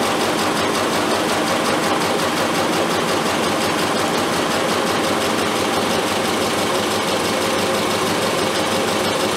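Triumph Spitfire four-cylinder engine idling steadily on twin SU carburettors with no air filters fitted, while the carburettor jet adjusting nut is being set for mixture.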